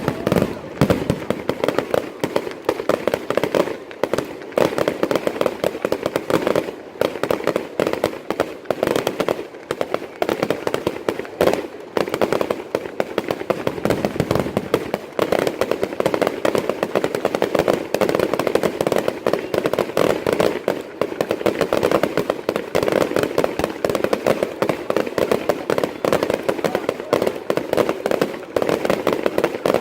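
Fireworks going off in a rapid, unbroken barrage of bangs and crackle, many bursts a second with no pauses.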